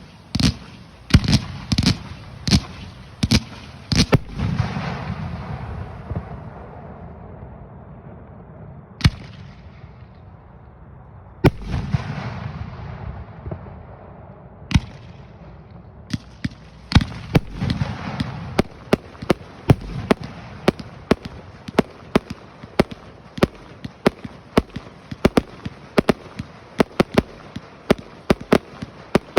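Fireworks going off: a volley of sharp bangs with long rumbling echoes, a few scattered bangs in the middle, then a rapid, dense string of reports through the second half.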